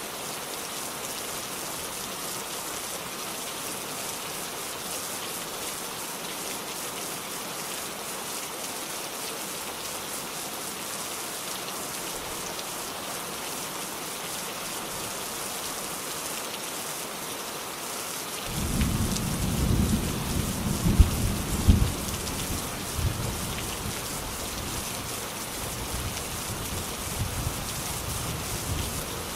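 Steady rain falling, a dense even hiss. About two-thirds of the way through, thunder breaks in as a sudden low rumble with a couple of sharper cracks, then rolls away under the rain.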